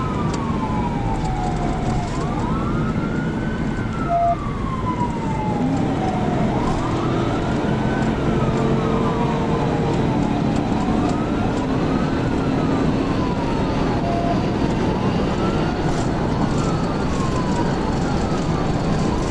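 Police cruiser siren wailing, slowly sweeping up and down in pitch about every four to five seconds, over steady road and engine noise.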